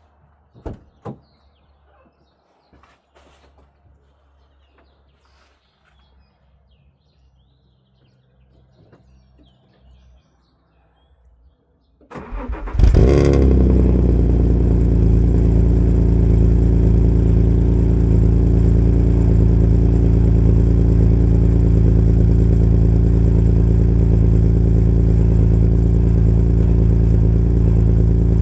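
A few faint clicks, then about twelve seconds in the Alfa Romeo 166's 3.0 V6 cranks briefly and catches on a cold start. It settles into a loud, steady idle through an exhaust with an aftermarket catalytic converter, no middle silencer and only the rear silencer.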